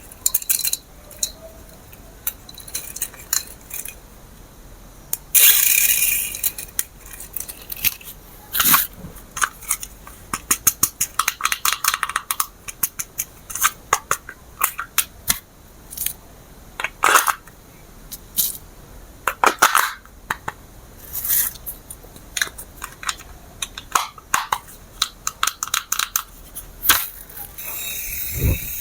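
Hands unboxing a toy RC helicopter: many quick clicks and taps of hard plastic parts and packaging being handled, with a longer crinkling rustle of packaging about five seconds in.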